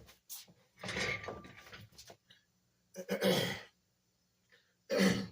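A man clearing his throat and coughing in three separate bursts, about a second in, near three seconds and just before the end.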